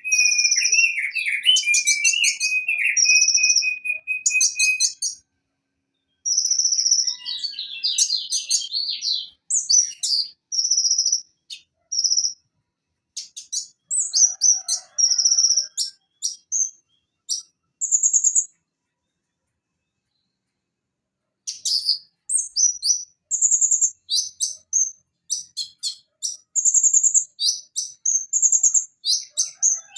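Van Hasselt's sunbird (konin) singing: rapid, high, sharp chirps and trills in quick bursts. There are two short pauses, a brief one about five seconds in and a longer one of about three seconds shortly past the middle.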